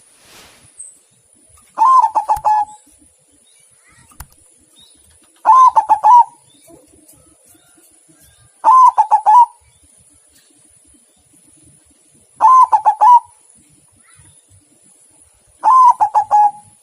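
Zebra dove (perkutut) cooing: five phrases, each about a second long and made of a quick run of rolling notes, repeated about every three and a half seconds.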